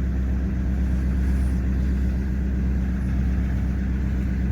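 Nissan Patrol Y61's glow-plug diesel engine idling steadily just after a cold start in frost, following a week standing.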